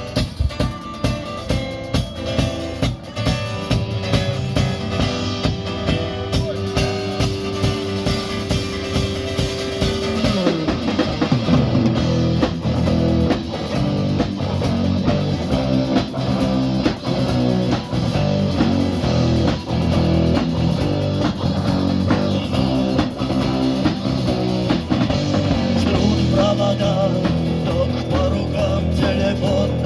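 Rock band playing an instrumental intro on guitar and drum kit. A long held note slides down about ten seconds in, and then the band settles into a steady driving rhythm.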